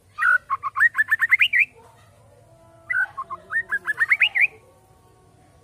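A bird singing two phrases of quick whistled notes, each note slurring upward and the run climbing higher in pitch to a final flourish, the second phrase coming about a second after the first ends.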